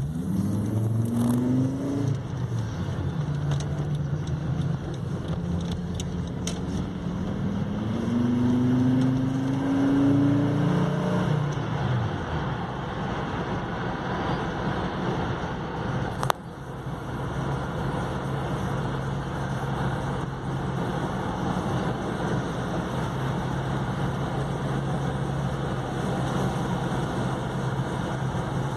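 Volvo straight-five engine revved: a short blip about a second in, a longer rev that rises and falls back between about eight and twelve seconds in, then idling steadily. A single sharp click about sixteen seconds in.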